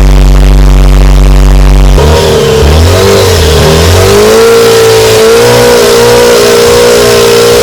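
Stock exhaust of a Jeep Wrangler JL's 3.6L Pentastar V6, idling steadily, then revved up about two seconds in and held at higher revs with a wavering pitch.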